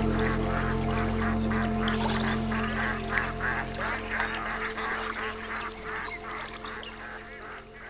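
A flock of ducks or geese calling in quick succession over a low, steady music drone. The drone thins out about halfway through, and the whole sound gradually fades down.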